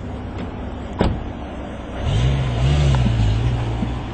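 A sharp click about a second in. Then a car engine comes on halfway through, its pitch rising briefly before settling into a steady run.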